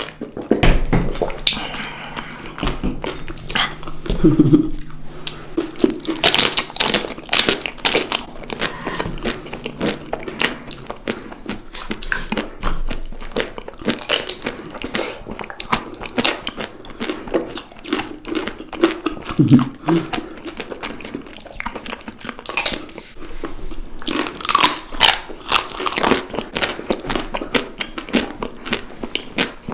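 Person biting into and chewing crunchy chocolate snacks close to the microphone: a continuous series of irregular crackling crunches.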